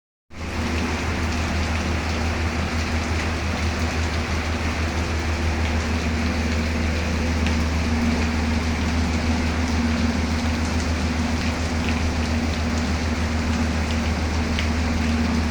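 Steady rain falling, a constant hiss with scattered drop ticks, over a steady low rumble and hum.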